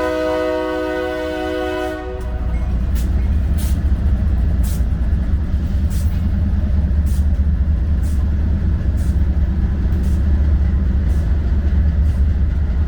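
Air horn of BNSF diesel locomotives sounding a chord, cutting off about two seconds in. Then the trio of lead diesel locomotives passes with a loud, deep engine rumble and sharp clicks roughly once a second from the wheels on the rails.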